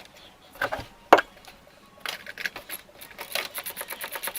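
Two sharp knocks, then a hand ratchet clicking quickly and evenly from about halfway through as an ignition coil bolt is spun out.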